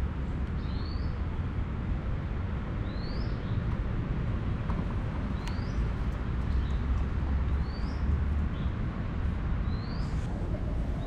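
A bird repeating a short rising chirp about every two seconds, five times, over a steady low rumble.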